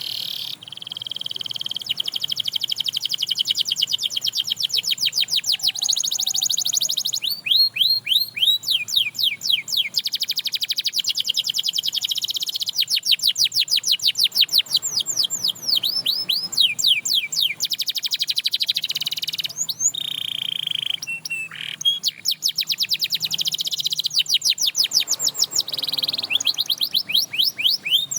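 Domestic canary singing a long, continuous song: held buzzing rolls alternating with fast runs of rapidly repeated downward-sweeping notes, several a second, with brief pauses between phrases.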